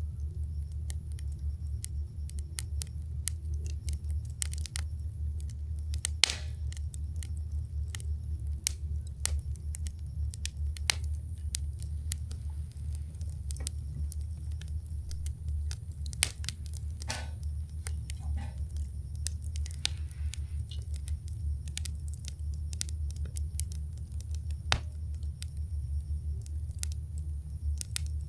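Wood campfire burning, with irregular crackles and a few louder pops from the burning wood, over a steady low rumble.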